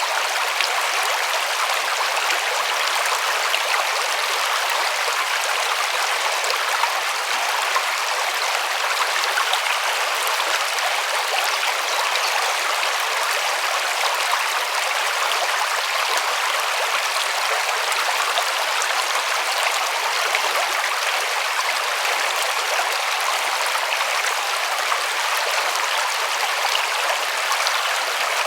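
River water flowing over rocks: a steady rushing and splashing, even and unbroken, carrying mostly in the upper range with little low rumble.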